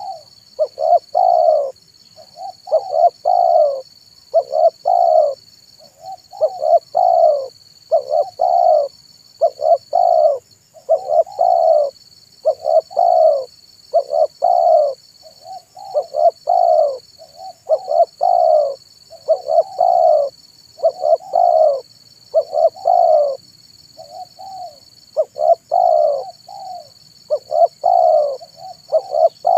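Spotted dove (tekukur) cooing its song: short phrases of two or three deep coo notes, repeated about every two seconds without a break.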